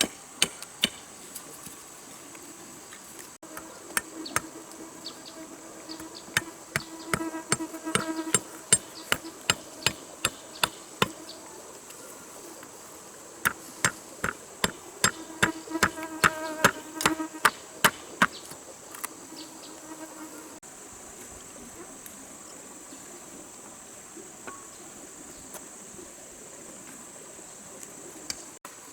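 Sharp knocks of a tool striking something, many in two busy flurries with a ringing tone under them, then only a few later on. Insects keep up a steady high-pitched buzz.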